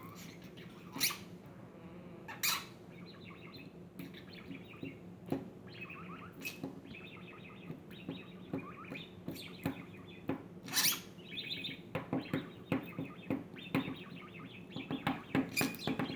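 Budgerigar chattering and warbling in quick, busy bursts, broken by several sharp clicks and knocks, the loudest about a second in, two and a half seconds in and near the middle.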